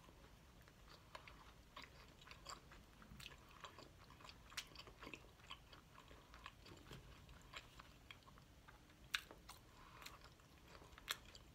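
A person chewing a mouthful of handheld chicken pot pie with a pastry crust: faint, irregular mouth clicks and smacks, with a couple of sharper clicks late on.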